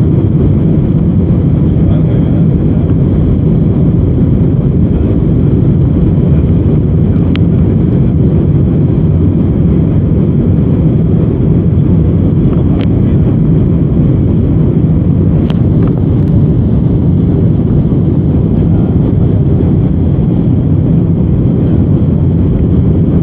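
Airbus A319-100 cabin noise: a steady, loud, low rumble of engines and airflow, with a few faint brief clicks.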